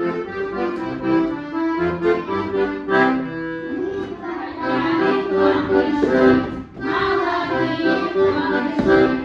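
Accordion playing a folk tune, melody over held chords.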